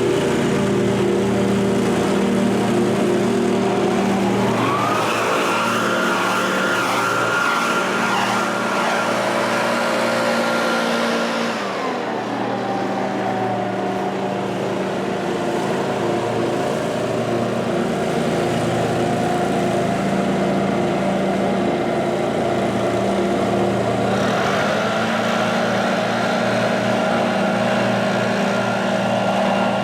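Small engines of lawn-care equipment running steadily. One revs up about four seconds in, holds a high whine, drops back near twelve seconds, and revs up again near the end.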